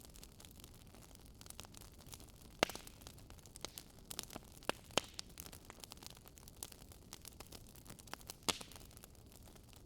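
Crackling wood fire: irregular snaps and pops over a faint low hiss. The sharpest pops come about two and a half, five and eight and a half seconds in.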